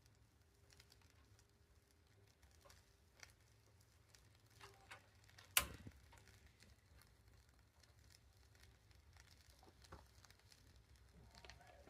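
Near silence, broken by scattered faint taps and clicks and one sharp click about halfway through.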